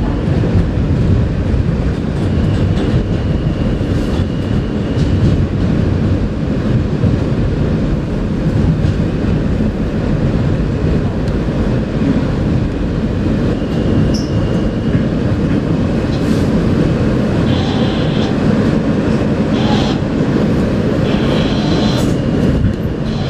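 Interior of an R160A subway car running on the rails: a steady heavy rumble from wheels and track. Brief high-pitched wheel squeals come in several times, around the first few seconds and again in the second half.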